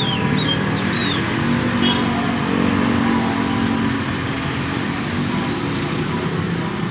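A steady low motor rumble with a few short, high canary chirps in the first second and a brief click about two seconds in.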